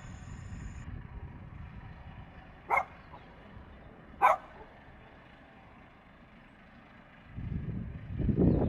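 Two short dog barks about a second and a half apart over a low steady rumble. Near the end, the noise of the Embraer Phenom 100E's twin Pratt & Whitney Canada PW617-F turbofans rises quickly and turns loud.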